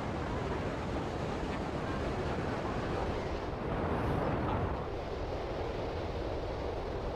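Ocean surf and wind: a steady wash of breaking waves that swells briefly about four seconds in.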